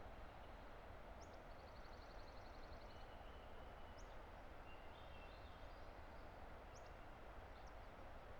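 Distant mountain river rushing as a faint, steady hiss, with small birds calling over it: a quick trill of rapid notes about a second and a half in and several short, high chips scattered through.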